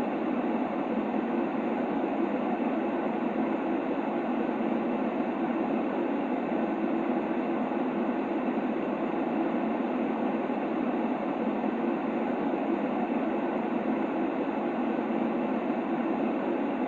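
Steady white-noise track for soothing a baby: an even, unchanging rush of noise, fuller in the lower-middle range than a bright hiss, with no rhythm or separate sounds.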